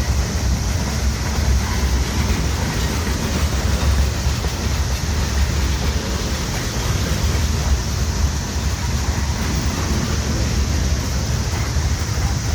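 Freight train cars rolling slowly past, a steady noise of steel wheels on rail.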